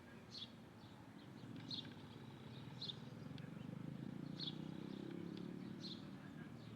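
A bird repeating one short high call about every second and a half, over a low rumble that swells and fades in the middle.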